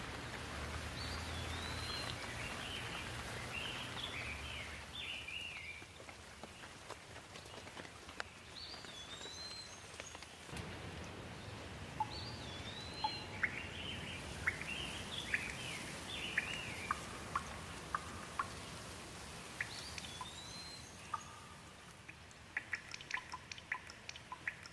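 Steady rain with birds chirping in repeated runs of short rising-and-falling calls, and a low rumble of distant thunder under them. Near the end, sharp water drips tick.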